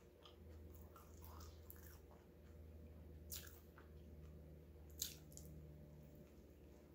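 Faint close-up chewing of a sub sandwich, with soft mouth clicks and two sharper crunches about three and five seconds in.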